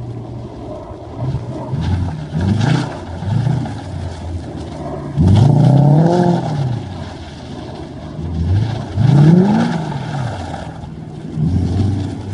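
A Toyota Cresta GX71's engine heard through its exhaust muffler, idling and repeatedly revved in short blips that rise and fall. The longest and highest rev comes about five seconds in, and another strong one about nine seconds in.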